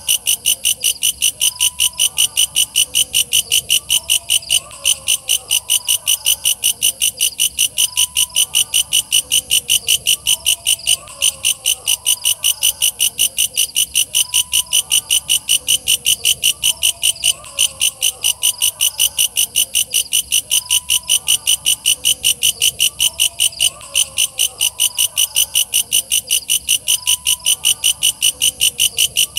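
Walang kecek, a katydid, calling in a fast, even train of sharp, high-pitched chirps, about five a second, with a short break every six seconds or so. Fainter, lower chirping runs underneath.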